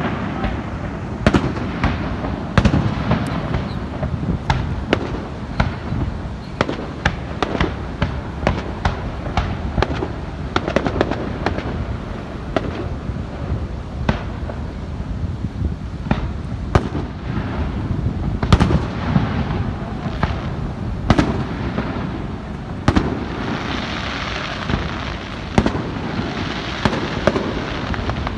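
Fireworks display: a rapid, irregular run of sharp bangs and booms, several a second, over a continuous rumble, with a hissing, crackling stretch near the end.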